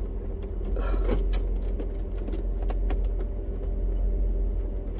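A vehicle's engine idling, heard inside the cabin as a steady low hum. Over it come a few sharp clicks and knocks from fumbling with a stuck cigarette lighter in the dashboard socket.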